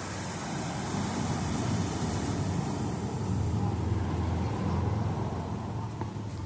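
Ocean surf: a wave's rushing roar that swells, holds with a deep rumble, and fades away near the end.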